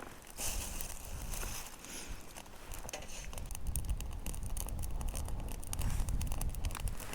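Wood campfire crackling with many small irregular pops, over a low rumble that swells in the second half.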